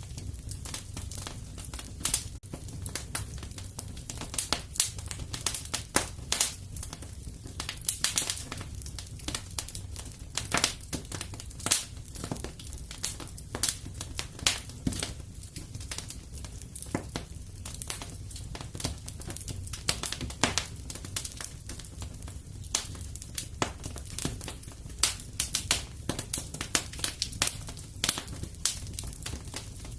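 Wood fire burning in a fireplace, with a steady low rumble of flame under many irregular crackles and sharp pops from the burning logs.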